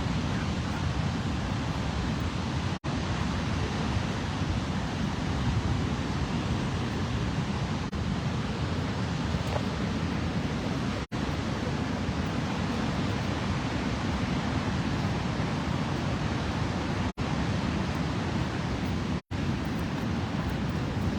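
Steady, even rushing roar of falling water, heaviest in the low range, cut by a few very brief dropouts.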